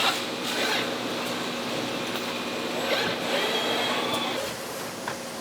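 Factory assembly-line machinery running with a steady hum and a high whine that comes and goes, mixed with short clatters and clicks of parts being handled. It gets slightly quieter near the end.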